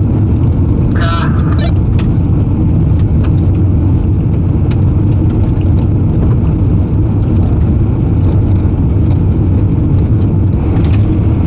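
Steady loud rumble inside a MK4 Volkswagen Jetta TDI rolling under tow in gear, its ALH diesel engine being turned over through the drivetrain but not firing.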